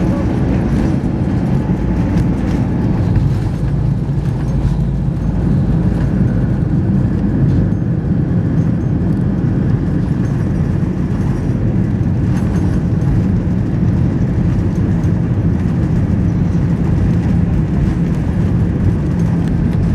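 Airbus A319 heard from inside the passenger cabin: a steady, loud low rumble of the engines and airframe.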